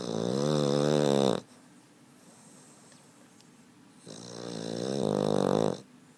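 A Boston terrier snoring: two long, pitched snores with a pause of about two and a half seconds between them. The first starts abruptly and the second swells in gradually.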